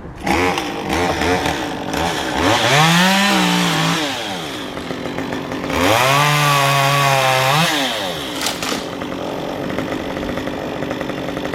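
Two-stroke chainsaw being started and struggling to stay running. The engine sputters, then revs up and falls back twice, each rev lasting about two seconds, before settling to a rougher, steadier running sound.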